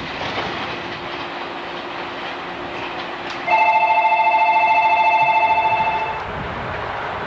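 Electric station bell ringing with a fast, rattling pulse for almost three seconds, starting about halfway through, over the steady background noise of trains.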